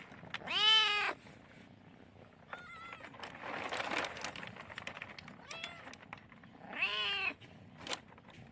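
A kitten meowing four times, each meow rising then falling in pitch: a loud one about half a second in, softer ones near 3 s and 6 s, and a fuller one near 7 s.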